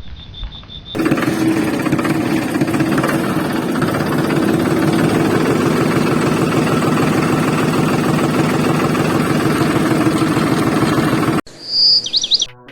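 Tractor diesel engine running steadily with a fast, even beat. It starts abruptly about a second in and cuts off sharply near the end, followed by a brief bird chirping.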